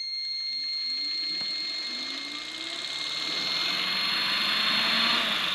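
Electric fan spinning up gradually under a soft starter: the rush of air builds and the motor tone rises in pitch, with a thin steady high whine over it. The whine cuts off about five seconds in and the noise begins to fall away.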